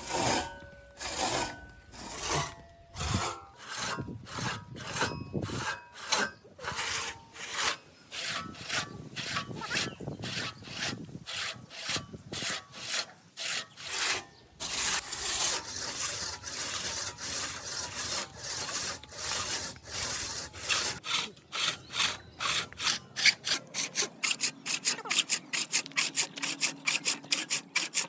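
Hand tool working wood in repeated back-and-forth strokes, like sawing or rasping, which quicken to about three a second near the end.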